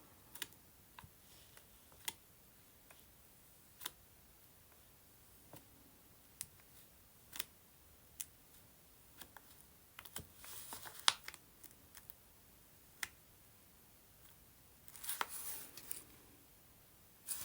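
Scattered light taps and clicks, with two short scratchy rustles about ten and fifteen seconds in: a hot soldering iron tip dabbed and dragged across paper to burn marks into it.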